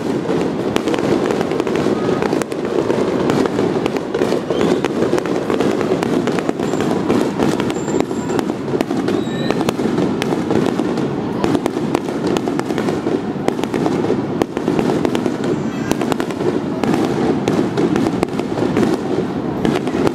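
A rapid barrage of aerial firework shells bursting, with many overlapping bangs and crackles and no break between them.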